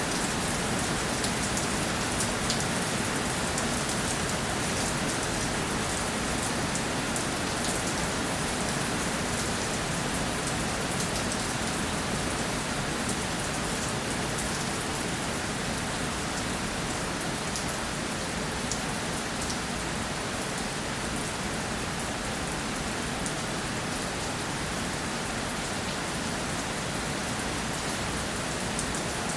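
Steady rainfall, with many individual drops ticking on a surface over an even hiss of rain.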